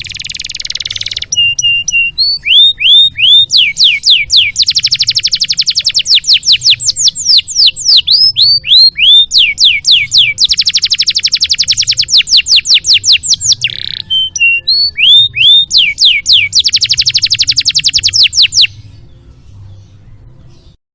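Domestic canary singing a long, varied song: a harsh buzzy note at the start, then runs of repeated downward-sweeping whistles alternating with three long, very fast trills. The song cuts off suddenly near the end. A faint steady low hum runs underneath.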